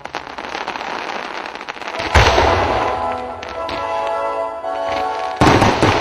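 Fireworks display: rapid crackling for the first two seconds, then a loud shell burst about two seconds in and another just before the end, over music.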